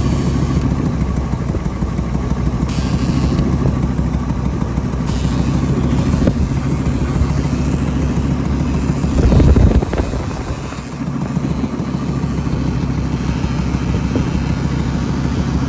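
Old farm truck's engine running steadily, with a brief louder surge about nine seconds in.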